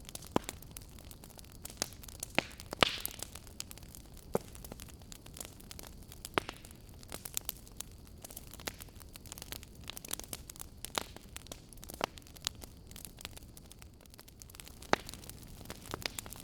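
Firewood burning: irregular sharp crackles and pops over a faint steady hiss, with the loudest pop about three seconds in.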